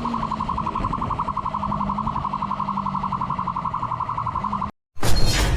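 Electronic police siren on one high tone, pulsing rapidly at about a dozen beats a second. It cuts off abruptly near the end, and a short, loud noisy burst follows.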